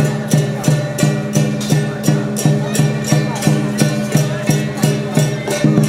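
Traditional Taiwanese lion-dance accompaniment music: percussion strikes at an even beat of about three a second over sustained pitched tones.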